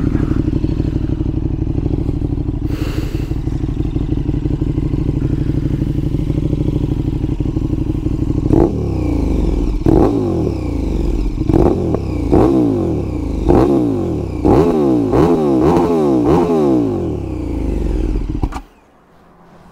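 KTM 1290 Super Duke R's V-twin engine idling steadily, then revved in a string of quick throttle blips for about ten seconds. It is shut off near the end and the engine sound stops abruptly.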